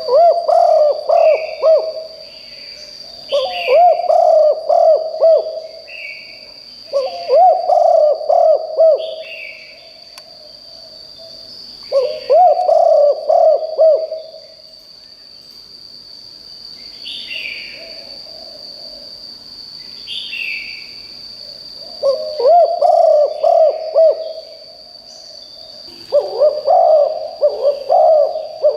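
Spotted dove cooing: six loud phrases of rapid coos, each about two seconds long and a few seconds apart, with a fainter phrase midway. Short higher chirps from other birds and a steady high-pitched whine run underneath.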